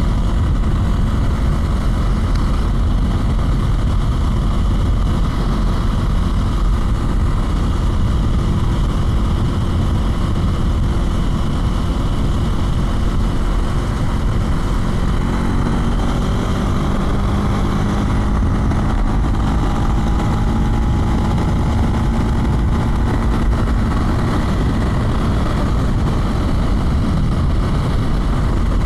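Wind rushing over the microphone on a moving motorcycle, with the 2024 Husqvarna Svartpilen 401's single-cylinder engine running underneath. In the second half the engine's pitch rises and falls with the throttle and gear changes.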